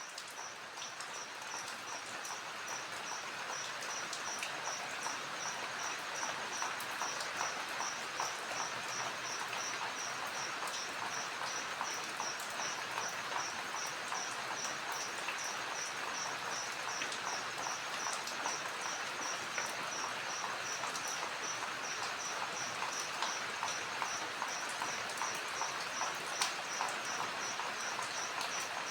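Crickets chirping at night: one high chirp repeating in a steady, even rhythm over a dense crackling chorus of other insects. The sound fades in over the first few seconds.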